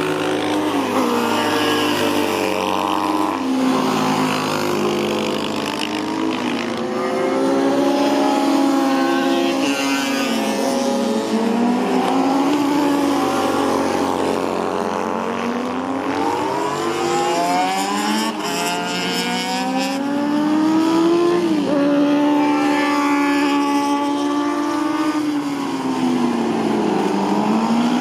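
Honda VF400F race bike's VFR400R (NC30) 400 cc V4 engine, running hard on track. Its note climbs and falls again and again as the bike accelerates and slows.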